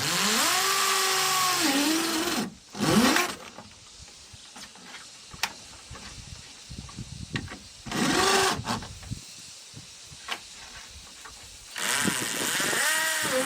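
Chainsaw revving up in four bursts, each rising in pitch and holding, with scattered sharp knocks in the quieter gaps between.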